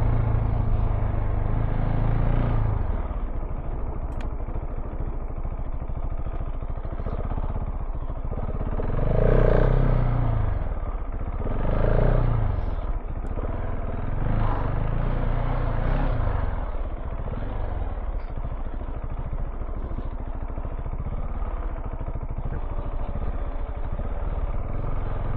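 KTM 690 Enduro R's single-cylinder engine running while riding off-road. The engine note drops about two seconds in, then rises and falls in several short revs roughly between nine and sixteen seconds in.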